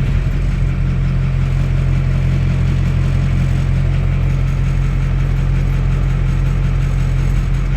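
Dump truck engine idling steadily with the PTO just disengaged: an even, low hum.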